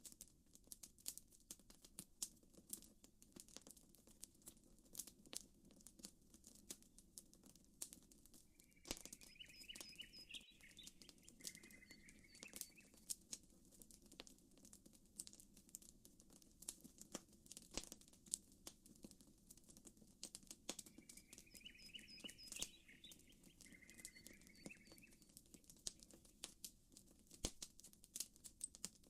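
Campfire crackling softly, with frequent sharp pops and snaps over a low steady rush. Short chirping calls come in pairs twice, about 9 s and again about 21 s in.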